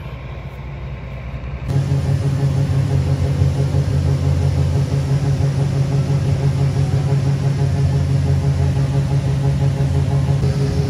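A heavy diesel engine of farm machinery running steadily. The sound steps up sharply about two seconds in, then holds an even, loud drone.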